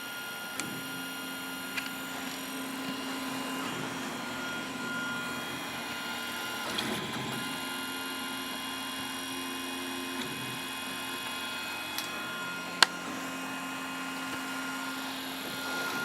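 Stepper motors of a large home-built 3D printer running, a steady whine of several tones that shift in pitch and stop and restart as the carriage moves change. There are a few light clicks, and one sharp click a little under 13 seconds in.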